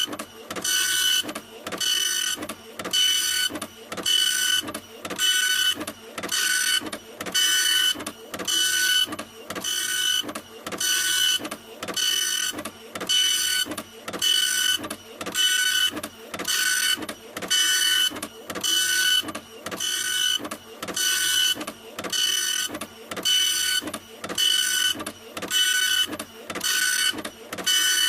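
A printer running continuously, printing in a steady rhythm of passes a little over one a second, each pass a mechanical whine with a short pause between.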